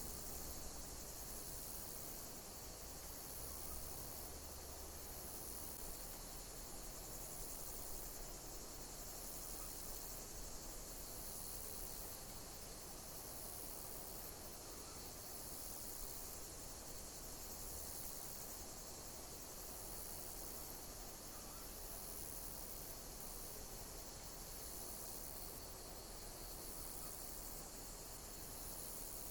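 Insects chirping in a steady high-pitched chorus that pulses about every second and a half.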